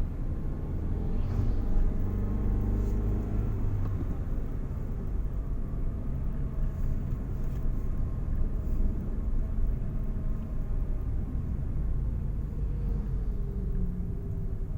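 A car on the move: steady low engine and road rumble, with the engine note shifting in pitch a couple of times.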